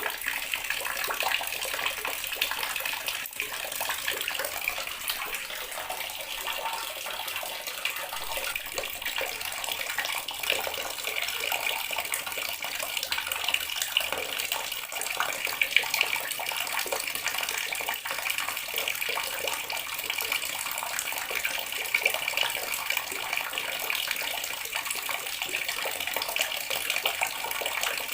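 Water running steadily from a tap and splashing, a continuous spatter with small flickering splashes.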